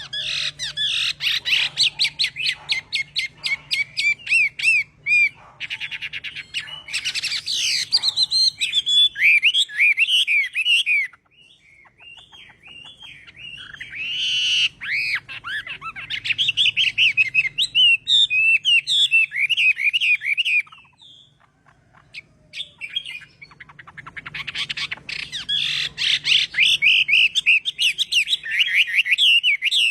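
Chinese hwamei singing long, varied phrases of rapid repeated whistled notes, with two short pauses between phrases.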